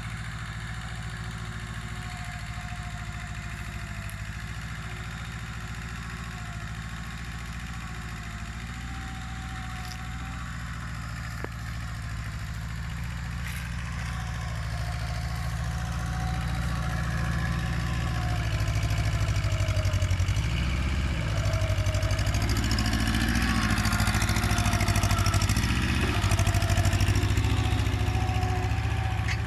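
Kubota mini tractor's diesel engine running steadily. It grows louder from about halfway through, and its pitch dips and recovers a few times near the end.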